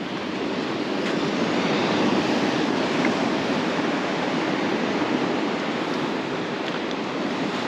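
Surf on a beach: waves breaking and washing up the shore, swelling about a second in and then slowly easing.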